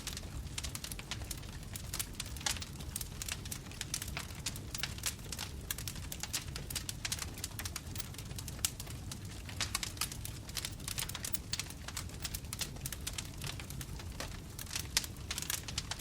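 Bonfire crackling: wood popping and snapping in quick irregular clicks over a steady low rumble of flames.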